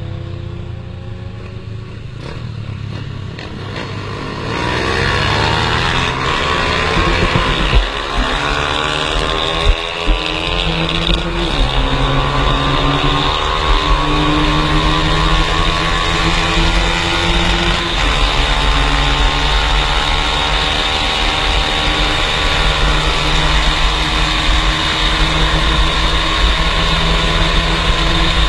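Two-stroke motorcycle engine running, getting louder about four seconds in and climbing in pitch as it revs up, then holding a fairly steady pitch. There are two sharp pops near eight and ten seconds in.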